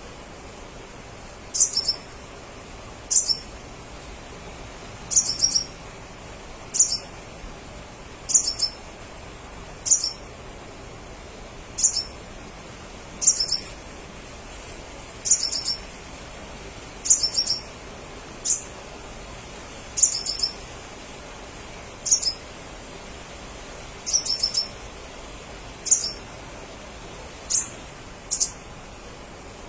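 Crimson sunbird (sepah raja) calling: short, high-pitched chirps repeated every second or two, some given in quick pairs or triplets, each dropping in pitch at its end.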